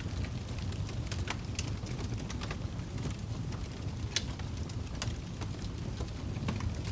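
Wood fire crackling in a fireplace: a steady low rumble from the burning fire with scattered sharp pops and crackles, the loudest about four seconds in.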